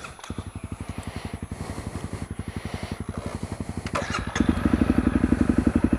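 Honda CRF250L single-cylinder engine starting and idling with a steady, even beat. A few sharp clicks come about four seconds in, then the engine gets louder as the revs rise.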